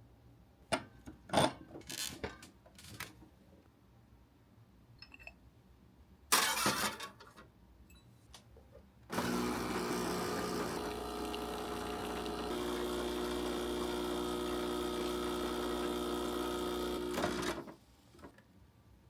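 A few clicks and knocks, then a small electric motor runs steadily for about eight seconds. Its pitch shifts partway through, and it cuts off suddenly.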